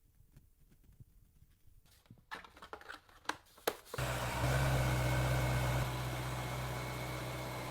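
A few clicks and knocks, then about four seconds in a car engine starts and runs at a steady idle.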